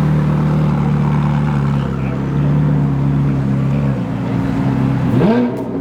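A car engine running at a steady idle, its low hum shifting slightly in pitch a couple of times, with a voice rising in near the end.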